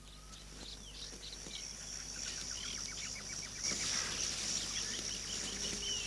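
Forest ambience: a steady high-pitched insect hum, swelling a few seconds in, with many short bird chirps and whistles over it.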